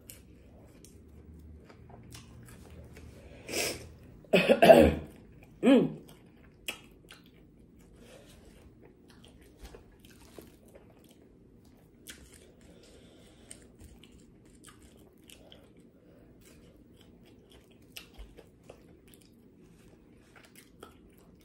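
Close-miked chewing of boneless chicken wings and seasoned fries, with small wet clicks throughout. About four seconds in, a sudden fit of three coughs, the middle one the loudest.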